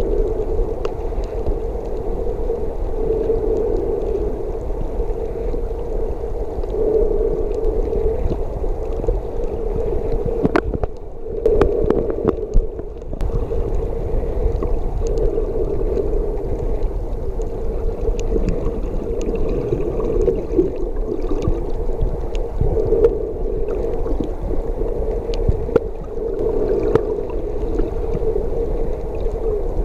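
Muffled underwater noise of water moving around a camera's waterproof housing: a steady hum that swells and fades, with low rumble and scattered small clicks.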